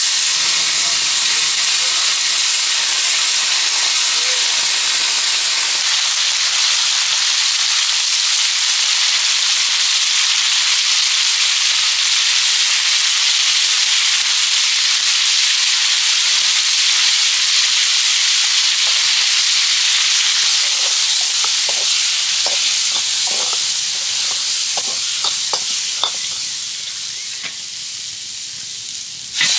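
Food sizzling hard in a wok over a wood fire, a steady loud frying hiss, with a few light clicks in the second half and the sizzle easing a little near the end.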